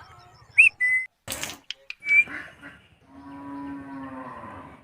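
Indian ringneck parrot giving short whistles and sharp clicks, then a low, drawn-out moo-like call lasting about a second and a half, starting about three seconds in.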